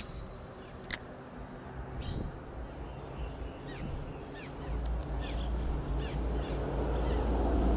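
Small birds chirping again and again in short falling notes, with a sharp click about a second in. A low rumble grows louder from about halfway.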